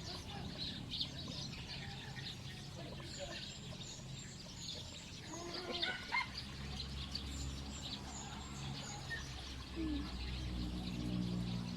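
Birds chirping and twittering: many short, high chirps throughout, with one louder call about six seconds in. A steady low hum runs underneath from about halfway.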